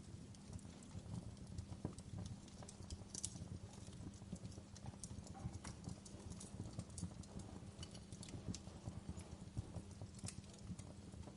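Wood fire burning in a fireplace: irregular crackles and snaps over a steady low rumble of the flames.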